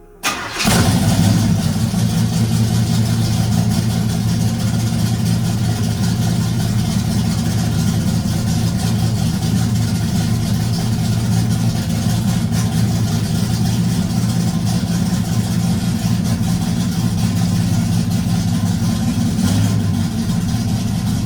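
1986 Chevrolet Camaro's small-block Chevy V8, fitted with a Comp Cams Mutha Thumpr cam, running steadily at a low, even speed. It cuts in abruptly right at the start.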